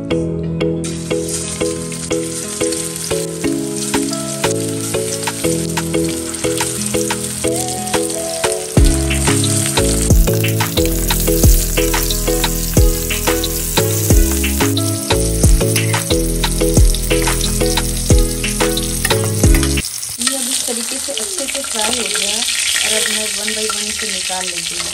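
Minced-mutton tikki sizzling as they shallow-fry in hot oil in a pan, with clicks of a metal spatula against the pan as they are turned. Background music with a steady beat plays over it and stops about 20 seconds in, leaving the sizzle on its own.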